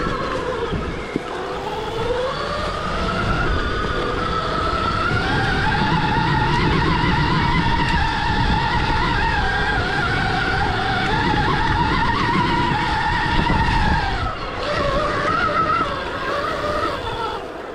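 Stark Varg electric dirt bike's motor whining under power, the pitch rising as it speeds up over the first few seconds, holding, then falling about fourteen seconds in. A low rumble of tyres and wind runs underneath.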